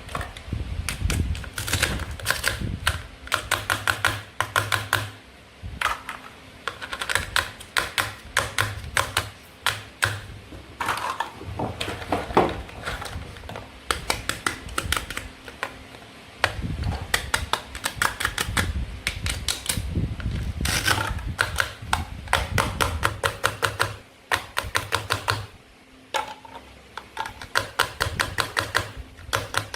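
Quick runs of sharp plastic clicks and taps from toy fruit and vegetables being handled and cut with a toy knife, with short pauses between runs.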